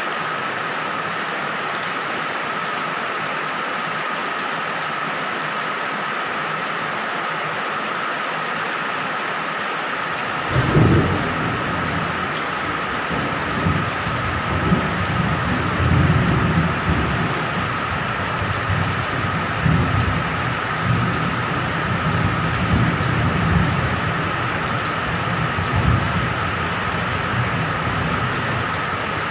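Steady rain falling. About ten seconds in, a low rumble of thunder sets in and rolls on, swelling and fading, until near the end.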